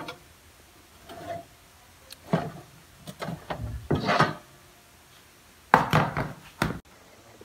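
Handling noises: a series of irregular knocks, scrapes and rubbing as things are moved about and the phone brushes against clothing, the loudest cluster about six seconds in.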